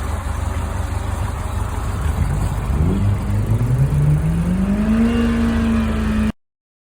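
Vintage Scania-Vabis car engine running, then revving up: its pitch rises over about two seconds from about halfway and holds high until the sound cuts off suddenly near the end.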